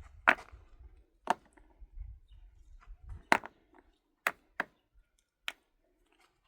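Six sharp knocks at uneven intervals, each short and sudden, the loudest near the start and about three seconds in.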